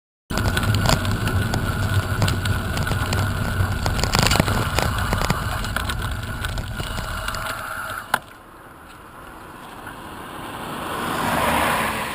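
Steady noise of travel in a moving vehicle, with a thin steady tone, that cuts off with a click about eight seconds in; after that it is quieter, and a rushing sound swells and fades near the end.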